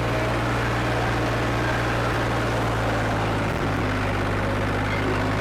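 Farmtrac 55 tractor's diesel engine running steadily while driving in fourth gear, its engine rebuilt with Farmtrac 60 T20 pistons and a modified injection pump. The engine note dips briefly about three and a half seconds in.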